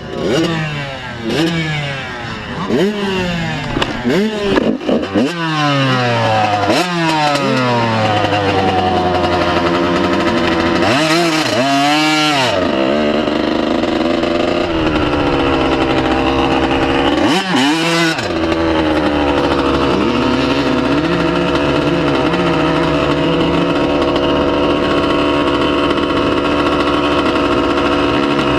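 125 cc two-stroke motocross bike engine revving in short bursts that rise and fall about once a second, then held at high revs with two brief dips in pitch.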